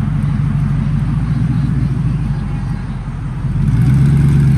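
A first-generation Ford GT's supercharged V8 running with a deep low exhaust note as the car rolls in slowly. The sound gets noticeably louder about three and a half seconds in.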